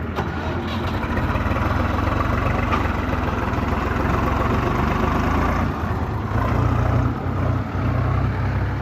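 Tractor's diesel engine running steadily, getting a little louder about seven seconds in.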